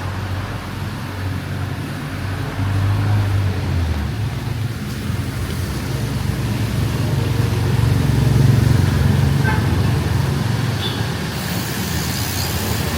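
Street traffic: vehicle engines running close by with a low rumble that swells twice, loudest a little past the middle, over a steady hiss. A brighter hiss comes in near the end.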